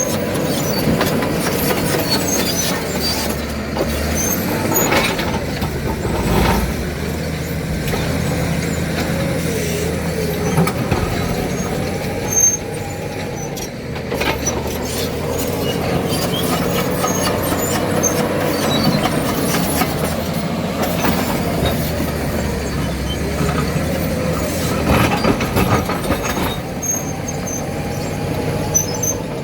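Caterpillar D7 bulldozer's diesel engine running steadily, with a wavering squeal and scattered knocks and clanks from the machine working.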